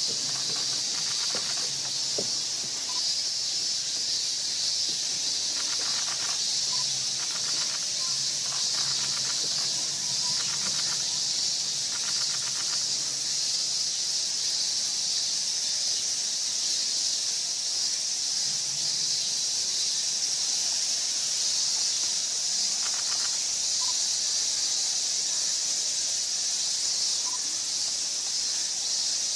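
Steady high-pitched chorus of insects, an even hissing drone that does not let up, with a few faint short calls in the middle.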